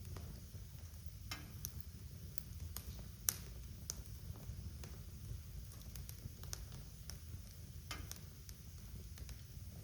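Wood fire burning in a fireplace: a low steady rumble of the flames with scattered sharp crackles and pops, the sharpest a little over three seconds in.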